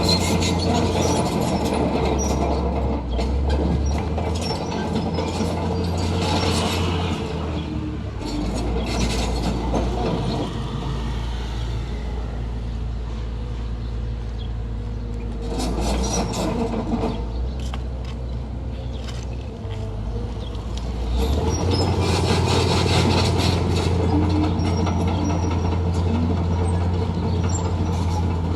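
Heavy diesel construction machinery running, its engine note shifting with load several times, with metallic clanking and rattling throughout.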